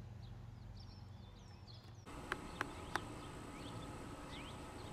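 Faint outdoor ambience with birds chirping, many short scattered calls. About two seconds in, the background changes to a thin steady high whine with three sharp clicks in quick succession.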